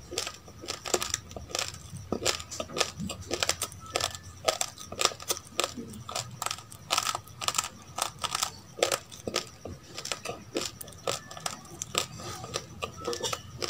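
Raw uncooked rice grains being chewed close to the microphone: quick, irregular crisp crunches, several a second.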